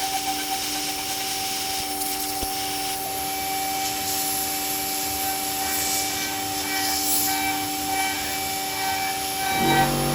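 CNC machine spindle running with a steady whine as a 6 mm ball-nose bit cuts into an aluminium mold, with a hiss over it. Near the end the set of tones shifts to a lower pitch.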